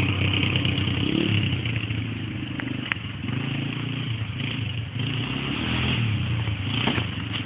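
Dirt bike engine running as the bike rides off, its pitch rising and falling with the throttle; it grows fainter, comes closer again about six seconds in, then fades.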